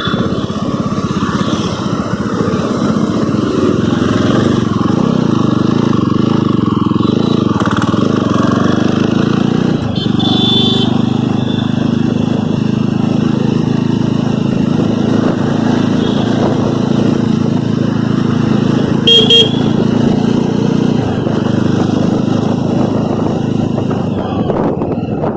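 Jawa Standard's 293 cc single-cylinder engine running steadily while the motorcycle is ridden, with road noise. Two short horn toots sound about 10 seconds in and again about 19 seconds in.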